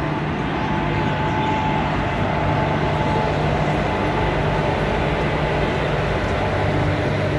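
An old electric multiple unit (EMU) suburban train running, heard from inside the carriage: a steady noise of wheels on track with a low electric hum.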